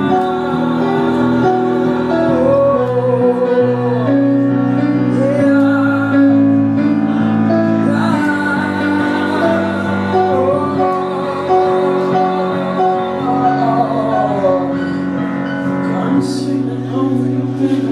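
A live band playing a passage with no lyrics: held chords change every second or two under a lead melody that slides and wavers in pitch.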